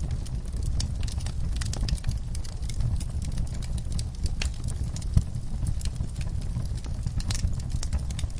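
Wood fire burning in a fireplace: a steady low rumble of the flames with irregular sharp crackles, and one louder pop about five seconds in.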